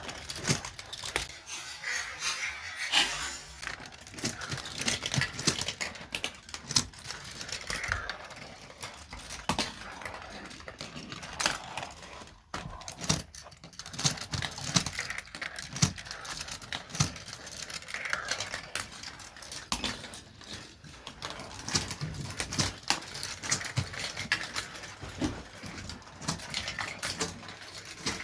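Marbles rolling and clattering through a plastic Gravitrax marble-run track, with many quick irregular clicks and rattles as they drop and hit the pieces, and rolling rumbles in between.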